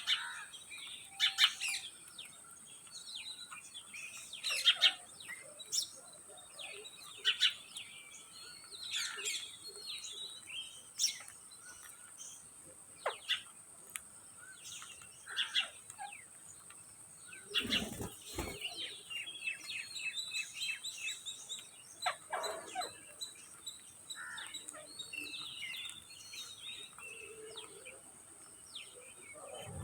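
Green ringneck parakeets calling: many short, sharp screeches and chirps at irregular intervals, some in quick runs.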